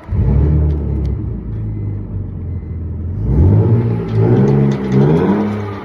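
Car engine running loudly, then revving up about three seconds in, its pitch climbing and dropping repeatedly as the throttle is worked.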